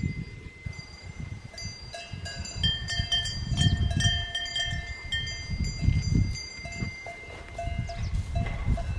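Cowbells on grazing cattle ringing, several bells clanking irregularly, with a low uneven rumble underneath.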